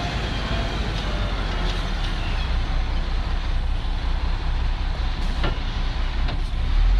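Diesel engine of heavy equipment running steadily with a low rumble, with a few faint knocks.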